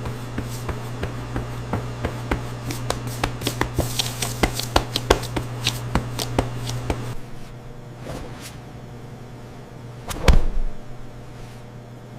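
Low machine hum with a rapid run of light clicks and taps, which stops about seven seconds in; a few sharp ticks and one loud thump follow near the end.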